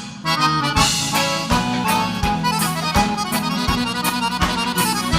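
Live gaúcho dance band playing an instrumental passage, the accordion leading over bass and drums with a steady beat, without singing. It starts after a brief lull.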